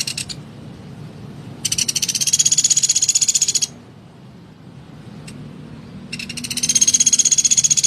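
Pelatuk beras woodpecker calling: two fast, harsh rattling trills of about two seconds each, the second starting about six seconds in, after a brief burst at the very start.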